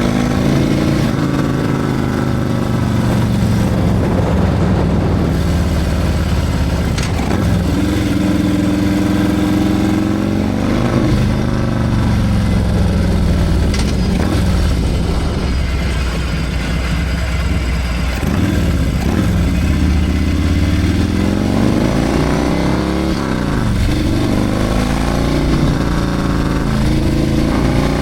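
Harley-Davidson Milwaukee-Eight 114 V-twin with a Screaming Eagle 447 torque cam running under way, its engine speed rising and falling again and again as it pulls and eases off. There are several quick climbs in pitch toward the end.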